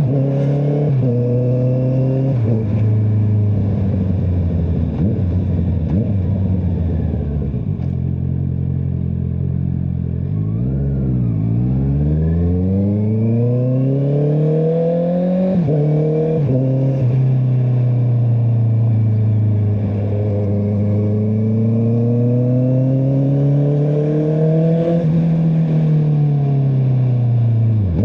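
Honda CBR650R's inline-four engine through an Akrapovic exhaust, ridden on the road: the revs climb and fall repeatedly with quick steps at gear changes. About ten seconds in it drops nearly to idle, then pulls away again through two quick upshifts.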